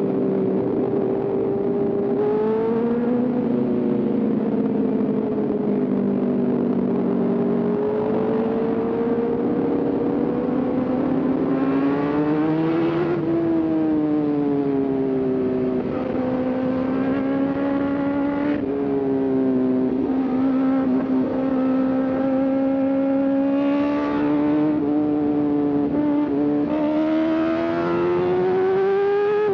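Sport motorcycle engine pulling hard through the gears. Its pitch climbs steadily and then drops sharply at each upshift, several times, over a steady rush of wind and road noise.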